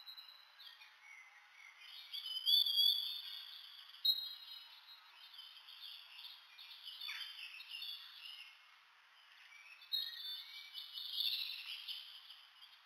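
Small birds chirping and twittering in short high calls, with the busiest bursts about two to three seconds in and again near the end.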